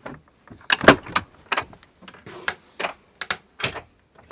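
A wooden door and its hardware being handled, giving a run of about eight irregular knocks and clicks, the loudest about a second in.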